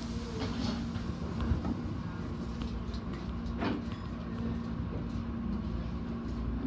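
Tobu Railway electric commuter train running slowly, heard from the cab: a steady low rumble with a held hum, and two short sharp clicks, the louder about a second and a half in.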